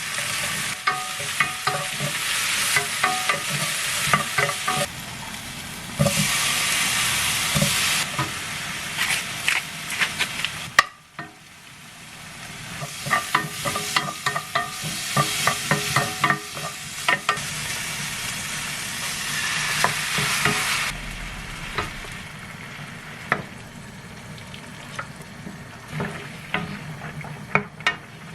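Food sizzling in a frying pan while a utensil stirs it, with frequent clicks and taps against the pan. About a third of the way through, the sizzle briefly drops away and then builds back up.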